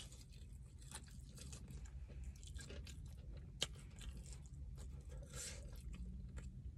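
Faint chewing and biting of chicken wings, with small scattered crunches and mouth clicks and one sharper click about three and a half seconds in, over a low steady hum.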